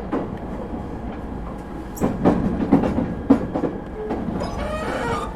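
Interior running sound of an ET127-series electric multiple unit with Toyo IGBT-VVVF drives: a steady rumble, with the wheels clicking over rail joints in quick clusters. A rising tonal whine comes in near the end.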